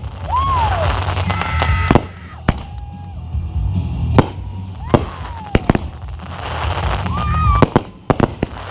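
Fireworks going off: a string of sharp bangs and crackles, some with short whistles gliding up and down, over background music with a steady bass.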